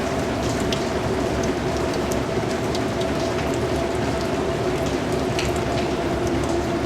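Steady rain falling, a dense even patter with many individual drops ticking out sharply.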